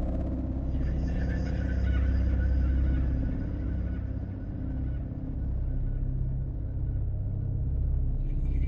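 Dark ambient drone: a deep, steady rumble, with faint high, thin tones fading in about a second in and again near the end.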